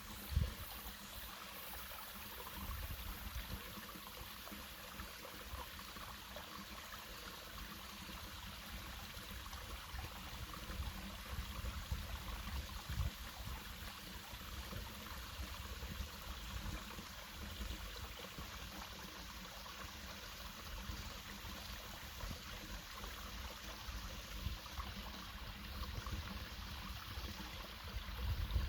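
Stream water flowing steadily, with a low rumble that comes and goes.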